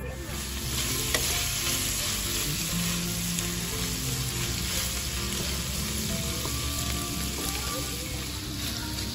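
Beef and tofu sizzling in a hot wok as they are stir-fried with a spatula: a steady frying hiss.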